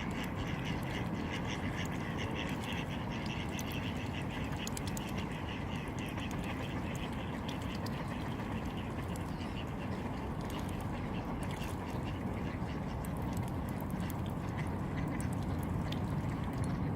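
Ducks quacking and chattering in rapid, repeated calls, over a steady low rumble of background noise.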